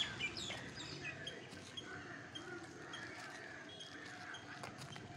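Birds chirping: quick, high, falling calls in the first second, then a short high note repeated about twice a second.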